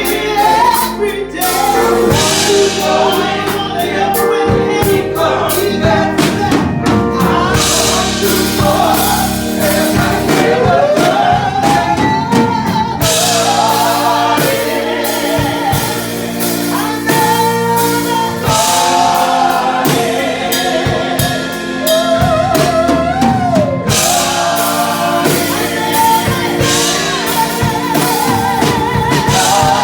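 Live gospel music: a woman singing the lead melody with sliding, wavering held notes over a band with drums and sustained chords.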